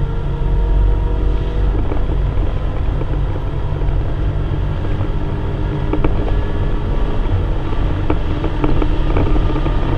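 Inside the cabin of a Volkswagen Golf R Mk7 at full throttle: its turbocharged 2.0-litre four-cylinder pulls steadily in a high gear as speed climbs, mixed with wind and road noise. A few sharp clicks come in the second half.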